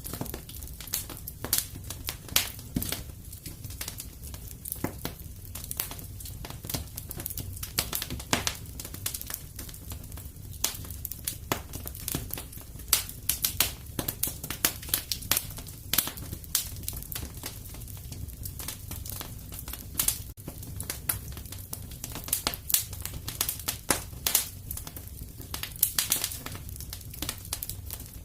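Wood fire crackling in a fireplace: irregular sharp pops and snaps, often several a second, over a steady low rumble of the flames.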